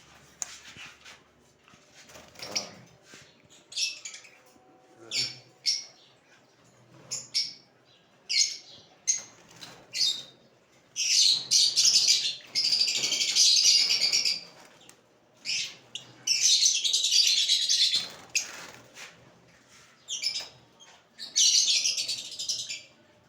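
Lovebirds calling: single sharp high chirps at first, then three stretches of a couple of seconds each where many birds screech together.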